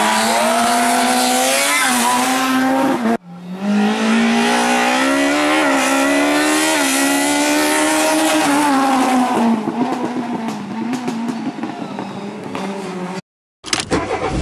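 Rally car engines at high revs, the pitch climbing and dropping with throttle and gear changes as cars drive the special stage, cut hard about three seconds in. Later the engine sound grows fainter with scattered sharp clicks, and there is a brief silent gap near the end.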